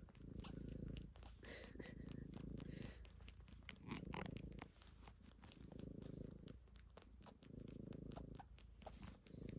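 A cat purring in pulses about a second long, rising and falling with its breaths, with faint wet clicks from the cat suckling.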